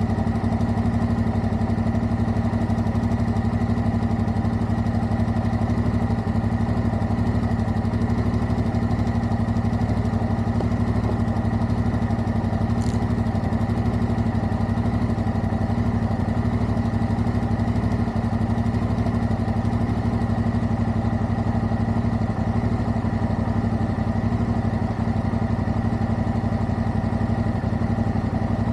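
Motorcycle engine running at a steady, unchanging pitch, with no revving.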